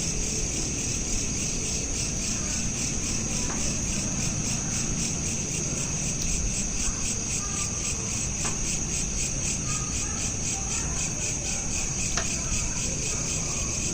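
Crickets chirping at night in a steady, rapid, high-pitched pulsing chorus over a low background rumble, with a few faint short chirps now and then.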